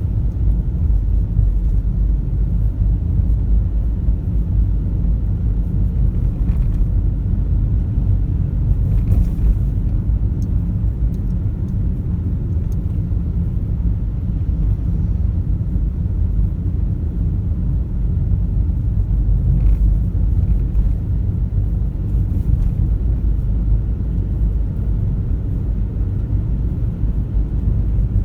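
A car driving along, a steady low rumble of engine and road noise, with a few faint ticks.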